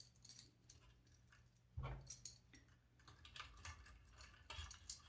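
Faint light clicks and rattles of small plastic robot-kit parts and motor cables being handled and fitted, with a dull knock about two seconds in.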